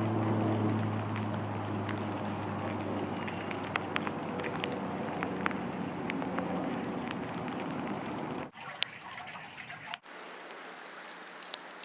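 Rain and dripping water from an ice storm, with scattered sharp ticks of drops over a steady wash of noise and a low hum underneath. The sound changes abruptly about 8.5 and again about 10 seconds in, where the hum drops away and the noise gets quieter.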